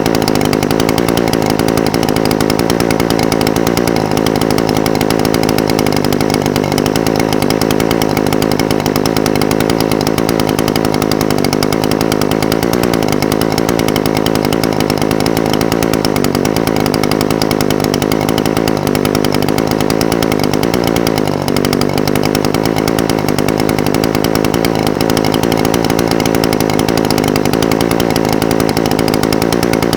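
Echo SRM-420TES brush cutter's two-stroke engine idling steadily, its pitch wavering slightly, with a brief dip about two-thirds of the way through.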